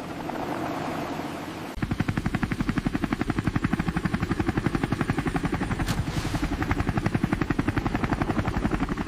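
Helicopter rotor chopping with a fast, even beat. It cuts in abruptly about two seconds in over a low steady hum, and holds steady as the helicopter comes in to land.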